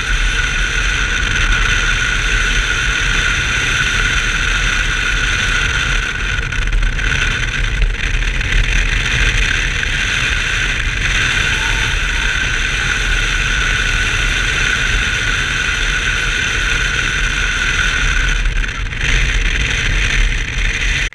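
BMW 325i's 2.5-litre straight-six running steadily at speed, with a few brief dips in level.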